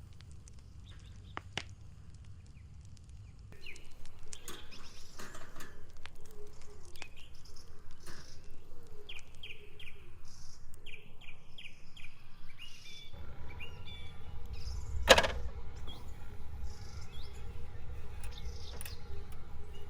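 Birds chirping in the forest, in runs of short repeated notes. A low steady rumble comes in partway through, and one sharp click or knock is the loudest sound.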